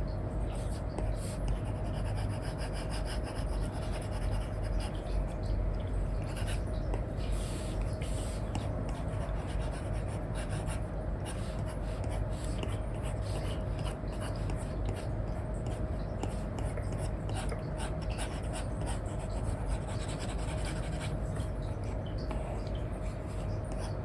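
Apple Pencil nib scratching and rubbing across a paper-feel screen film on an iPad, in many short, quick strokes of colouring.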